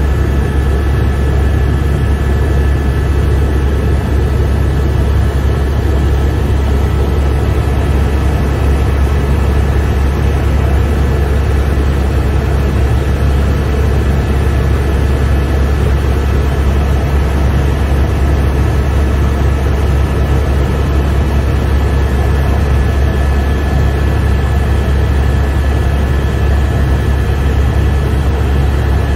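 Helicopter in flight heard from inside the cabin: a loud, steady, deep rotor and engine drone with a steady high whine on top.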